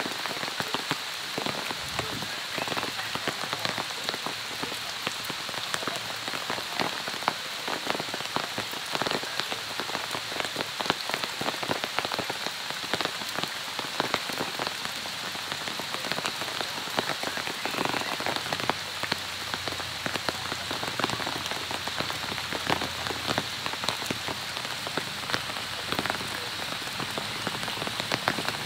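Steady rain falling on forest foliage, a constant hiss with many separate drop ticks.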